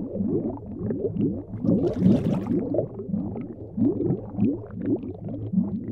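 Bubbling, gurgling background sound effects: a steady stream of short rising blips, several a second, over a low hum.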